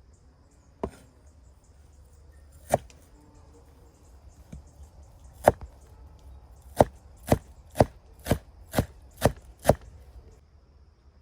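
Knife chopping on a cutting board: three spaced single strokes, then a steady run of seven about two a second.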